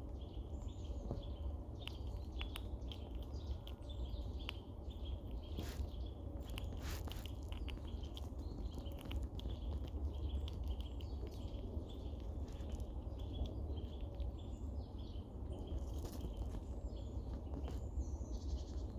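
A female Eurasian red squirrel giving a long run of short, squeaky clucking calls, interspersed with sharp clicks, over a steady low rumble. These calls warn off other squirrels nearby from the food she is eating and storing.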